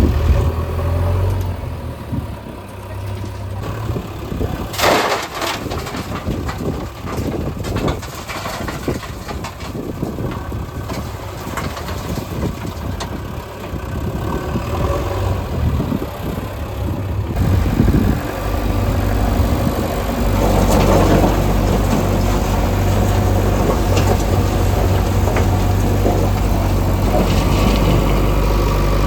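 Heavy diesel construction machinery engines running, with some clatter and a brief noisy burst about five seconds in. About two-thirds of the way through the sound changes abruptly to a louder, steady low engine drone.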